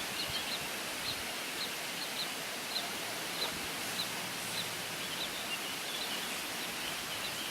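Steady outdoor background noise with a small bird repeating a short, high call about twice a second.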